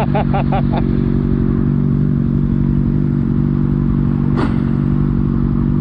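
A vehicle engine running steadily at idle, with an even low hum and regular pulsing. There is a single sharp click about four seconds in.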